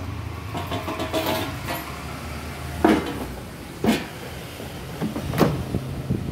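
Sharp air fryer basket drawer being slid in and out, with four sharp plastic clunks as it seats, over a low steady hum. Sliding the drawer home presses down the part that works the fryer's power switch.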